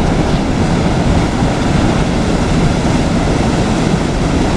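Steady rush of flowing river water, loud and even.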